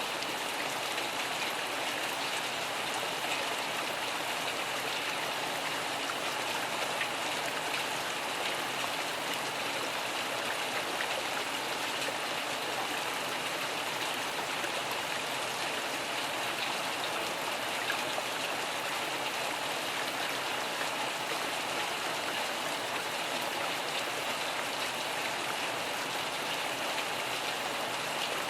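Steady rain, an even hiss of falling drops that holds unchanged throughout.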